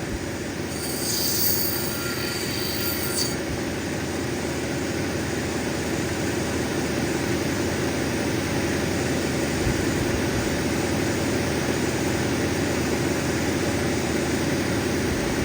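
Cabbing machine's diamond wheel running steadily with an opal pressed against it to grind down the gray potch on the back. A high squeal rises over the grinding from about a second in and stops after about three seconds.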